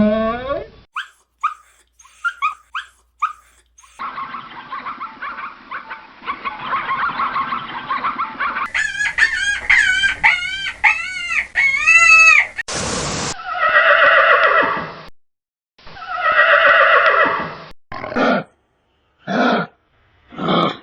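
A string of different animal calls, each changing abruptly to the next: short chirps, a quick run of repeated rising-and-falling calls, two long honking calls, then a few short calls.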